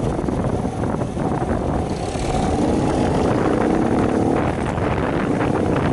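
Wind buffeting the microphone while riding a Shineray 50cc motorcycle, with the small engine running underneath; the engine's tone comes through more clearly from about two seconds in.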